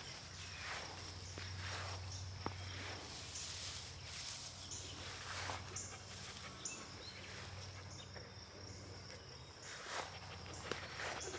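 Unhurried walking footsteps, a soft step roughly every second, with a faint steady high tone behind them.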